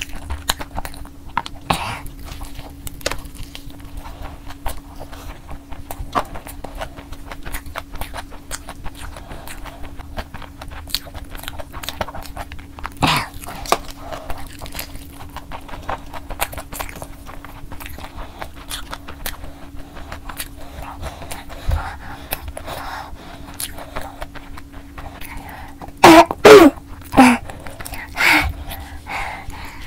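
Close-up chewing and mouth sounds of eating fried chicken soaked in extremely spicy Samyang sauce, with a loud bout of coughing near the end, the kind of coughing the heat of the sauce brings on.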